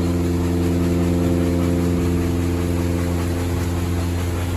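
A steady low mechanical hum with several held tones, unchanging, like an idling engine.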